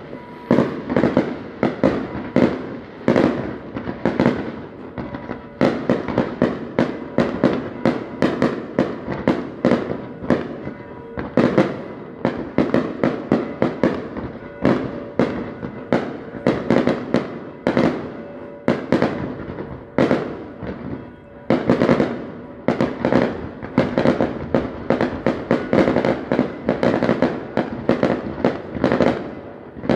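Aerial fireworks shells bursting overhead in rapid succession: a dense run of sharp bangs and crackles, many a second, with brief lulls.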